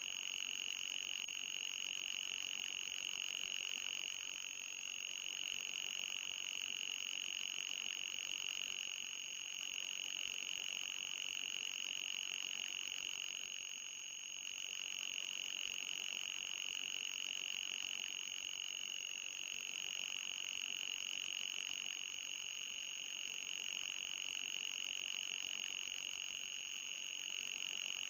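Electronic mosquito-repellent tone: a steady high-pitched whine centred near 3 kHz, with a second thin tone higher up, wavering slightly in strength every few seconds.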